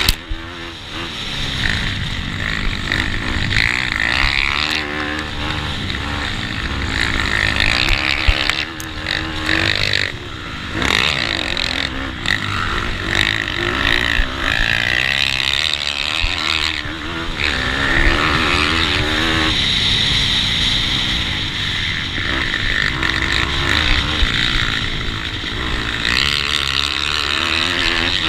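Small four-stroke single-cylinder pit bike engines racing, revving up and falling back again and again through gear changes and corners.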